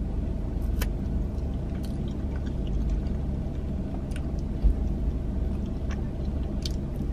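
A person chewing a mouthful of fried, battered mozzarella, with a few scattered soft mouth clicks, over a steady low hum inside a car's cabin.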